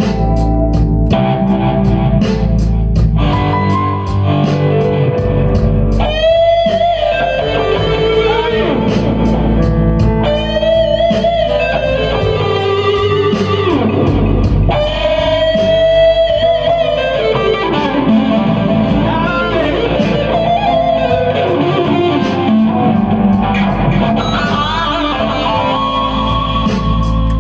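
Live blues-rock band playing: an electric guitar lead of long, bent notes with vibrato, over bass guitar and drums with a steady cymbal beat.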